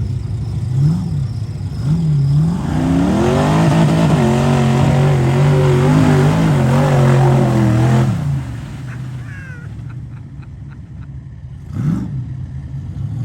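6.0-litre LQ9 V8 in a Jeep revving through a mud hole: two quick blips, then about five seconds of hard, sustained revving with the pitch wavering as the tyres spin, falling off about eight seconds in. One more short rev comes near the end.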